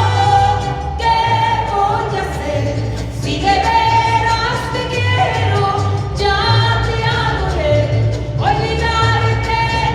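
Live mariachi band playing: long held melody notes over a steady, pulsing bass.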